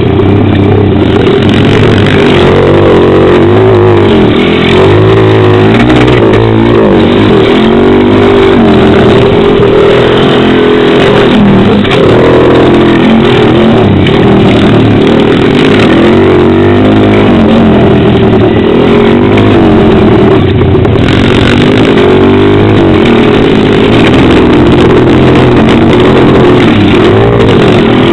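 Pit bike engine revving up and down continuously as it is ridden, rising and falling in pitch every second or two. It is very loud close to the helmet camera's microphone.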